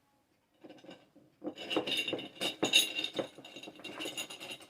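Small clicks and scrapes of hands handling wire nuts and stiff copper wire, starting about a second and a half in after a near-silent moment.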